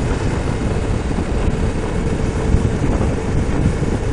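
Motorcycle underway: a steady rush of wind and road noise over the microphone, heaviest in the low end, with a faint steady tone running through it.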